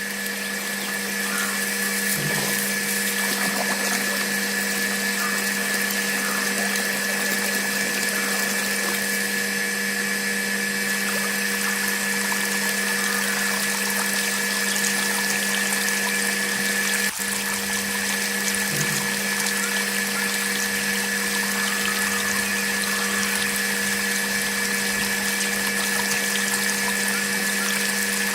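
Small electric water pump running with a steady hum, water splashing and trickling over it, with one brief click about two-thirds of the way through.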